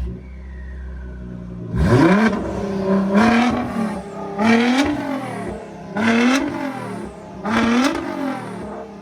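Straight-piped Nissan GT-R's twin-turbo V6 idling, then revved in five quick blips, each rising sharply and dropping back, about every second and a half from about two seconds in.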